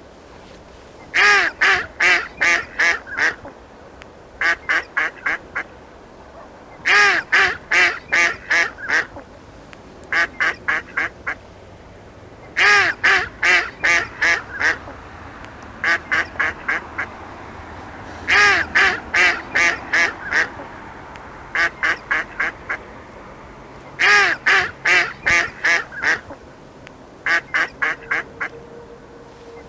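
Duck quacking in quick runs of about five to seven quacks, a run every three seconds or so, louder and softer runs alternating.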